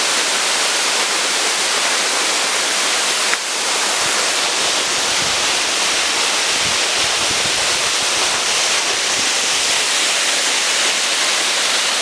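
A waterfall rushing: a steady, loud wash of falling water with no change in the flow, and one brief dip about three and a half seconds in.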